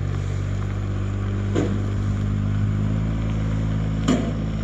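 A vehicle engine running steadily, a low even drone that holds its pitch.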